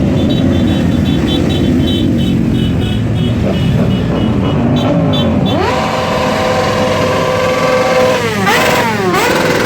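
Motorcycle engines rumbling. About halfway through, one engine is revved up sharply and held high, then blipped twice near the end and let fall back.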